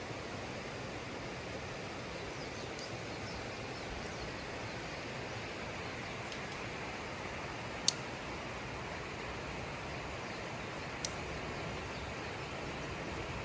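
Steady rushing of river water, with two sharp ticks about eight and eleven seconds in.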